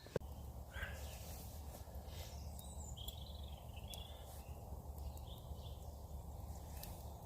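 Woodland birds chirping in short calls, several times, over a steady low rumble, with a few faint clicks.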